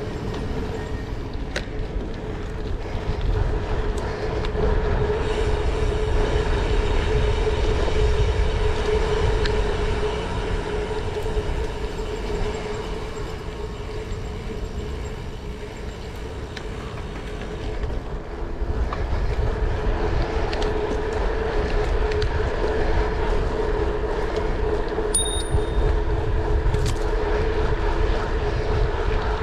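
Steady low rumble of a moving vehicle with a wavering hum over it, easing off for a stretch in the middle and then building again.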